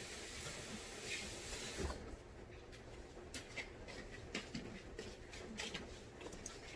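Water running from a tap, shut off about two seconds in, followed by scattered light clicks and knocks.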